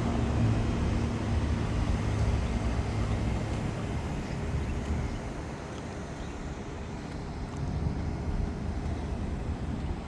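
Low, steady vehicle rumble with a haze of outdoor noise, easing off a little past the middle and swelling again near the end.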